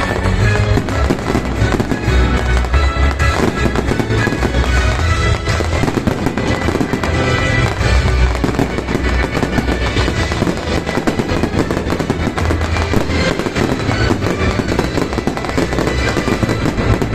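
Fireworks display: a dense, unbroken run of bangs and crackles with deep booming bursts, and music playing alongside.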